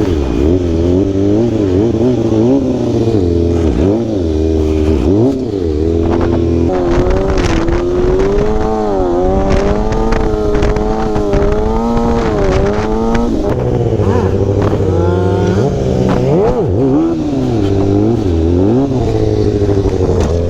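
Sportbike engine revving up and down under changing throttle while riding, with wind buffeting the microphone.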